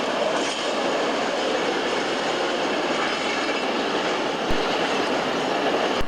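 Freight train wagons rolling past on the main line: a steady rumble and rattle of wheels on the track, with two sharp clicks about four and a half and six seconds in.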